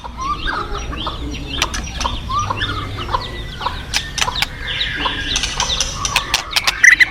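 Many birds chattering in quick, short calls over the steady low rush of a river.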